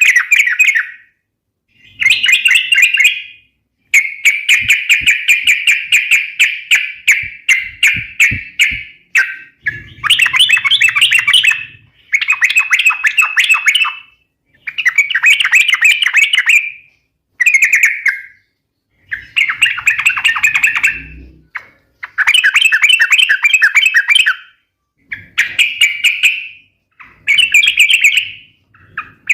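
Yellow-vented bulbul (trucukan) singing vigorously: about a dozen quick, chattering phrases, mostly a second or two long with short pauses between them, and one longer run of notes a few seconds in.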